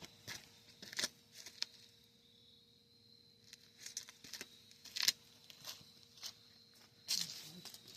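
Scattered clicks and light metallic knocks of hand tools being handled at a truck's front hub, with a longer rustling scrape about seven seconds in.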